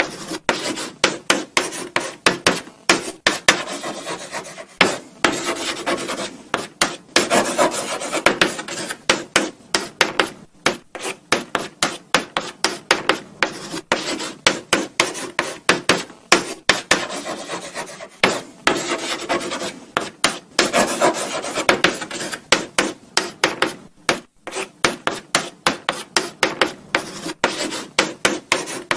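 Chalk writing on a blackboard: quick scratching strokes, several a second, in runs broken by short pauses between words or letters.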